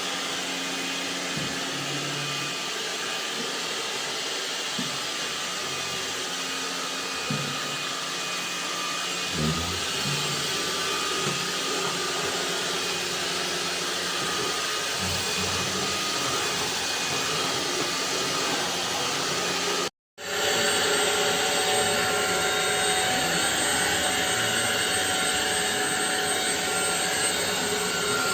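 Ultenic U16 Flex cordless stick vacuum running steadily, with a few light bumps of the floor head. About two thirds in, the sound drops out for an instant and resumes with a slightly different tone.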